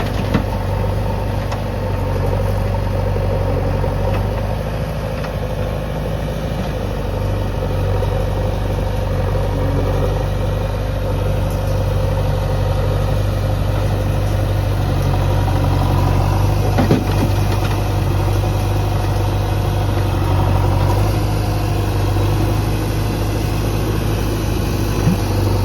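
Heavy diesel engine of an earthmoving machine running steadily at idle, with a sharp knock about 17 seconds in and another near the end.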